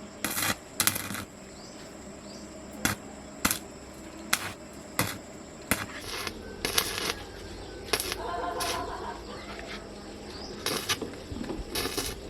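Irregular sharp metallic clicks and knocks of hand work on bicycle parts, about a dozen spread unevenly, with a short ringing tone around eight seconds in.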